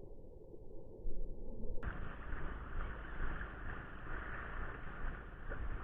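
Wind buffeting the microphone over a haze of surf noise on the shore; the sound turns abruptly louder and brighter about two seconds in.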